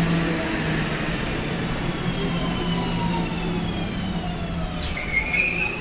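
Electric commuter train's variable-frequency traction drive whining, its several tones gliding slowly down in pitch as the train slows, over a steady low running hum. A loud high squeal comes in near the end.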